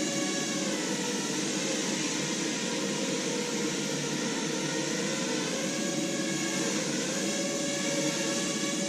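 Quadrotor's four electric motors and propellers whirring steadily in hovering flight, a dense buzz with several stacked tones that dip and rise slightly in pitch as the motor speeds change.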